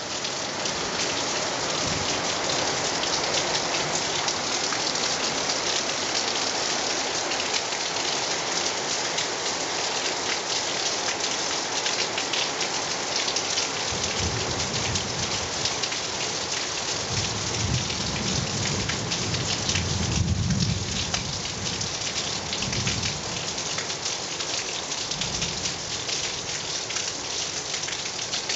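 Heavy rain falling steadily, a dense hiss of drops. From about halfway in a low rumble of thunder rolls in, strongest about two-thirds of the way through, then fades near the end.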